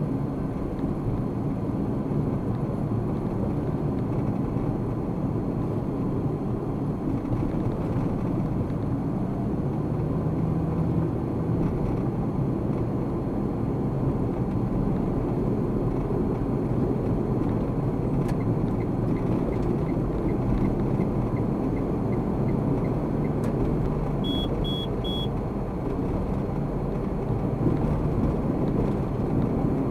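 Car being driven: steady rumble of engine and tyres on the road, recorded inside the cabin by a dashcam. A faint regular ticking runs for a few seconds past the middle, then three short high beeps sound.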